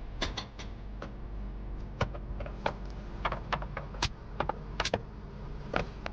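A series of irregular, sharp light clicks and taps, about a dozen or more, over a low steady hum.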